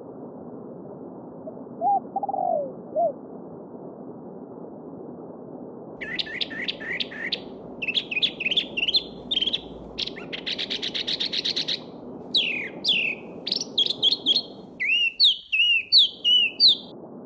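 Stream babbling steadily under songbird song. A few low short calls about two seconds in, then from about six seconds on a bird sings rapid, varied high phrases, including a fast trill, until near the end.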